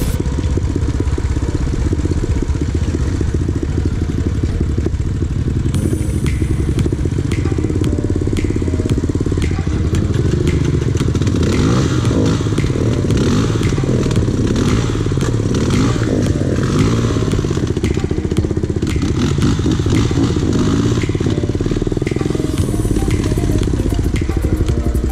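Motorcycle engine running steadily, its revs rising and falling through the middle stretch.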